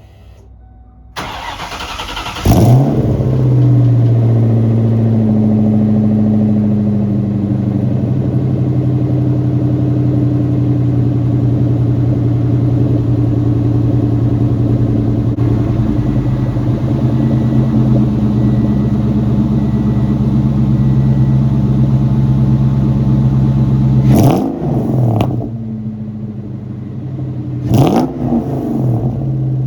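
A 1996 Ford Mustang engine with a straight-piped exhaust and Magnaflow mufflers cold-starting. The starter cranks for about a second before the engine catches with a surge, then it settles into a fast, steady cold idle. Near the end the throttle is blipped for a few quick revs that rise and fall back to idle.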